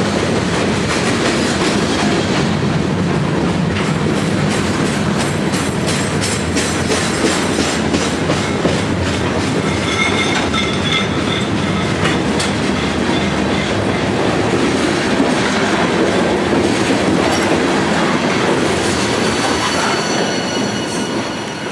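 Freight cars of a mixed freight train, covered hoppers and gondolas, rolling past close by with wheels clicking over the rail joints. There is a faint high wheel squeal about halfway through, and the sound drops away near the end as the last car goes by.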